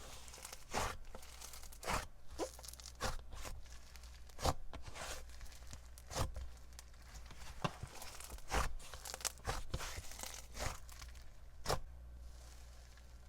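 Slime being squished and poked by hand, giving irregular sticky pops and crackles.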